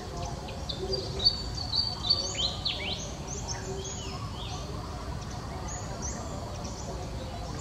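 Small birds chirping: quick high chirps and falling calls, busiest from about half a second to three seconds in, over a steady low outdoor rumble.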